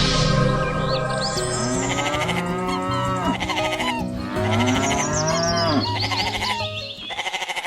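Cattle mooing over background music, long calls that rise and fall in pitch.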